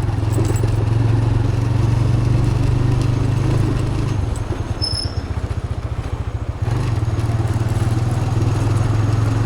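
TVS Raider 125 motorcycle's single-cylinder engine running under way, with wind rushing over the action camera's microphone. About four seconds in the engine eases off to a slower, pulsing note for a few seconds, then picks up again. There is a short high-pitched beep about five seconds in.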